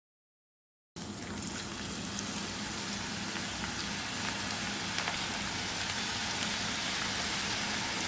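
Cabbage pakoda batter deep-frying in hot oil in a kadai: a steady sizzle with small crackling pops, starting about a second in.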